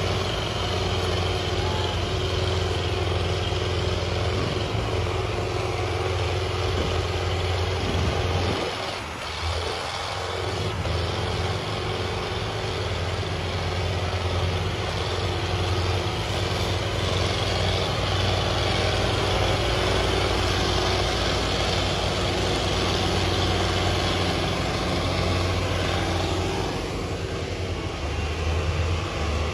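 Tractor diesel engine running steadily with a deep hum, easing off briefly about nine seconds in.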